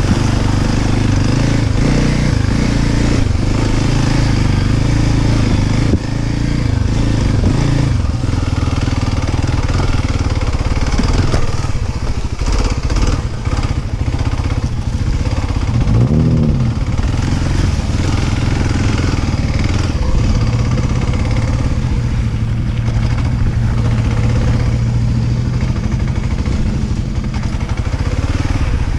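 Dirt bike engine running while riding, its pitch shifting with the throttle, with a brief rev that rises and falls about sixteen seconds in.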